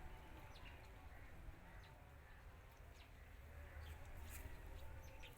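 Faint outdoor quiet: a low wind rumble on the microphone with a few short bird chirps scattered through it.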